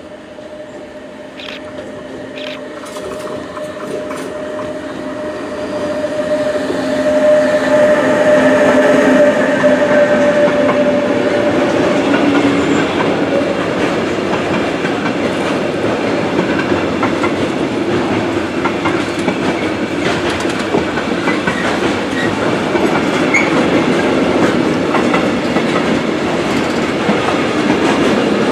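An electric locomotive hauling an intermodal freight train approaches and passes, with a steady whine that grows louder over the first several seconds and fades about twelve seconds in. The container wagons then roll past with an even rumble of wheels on the rails.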